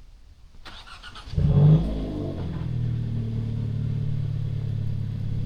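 Hyundai Elantra N's turbocharged 2.0-litre four-cylinder cold start. The starter cranks briefly, and the engine catches about a second and a half in with a loud rev flare, then settles into a steady cold idle.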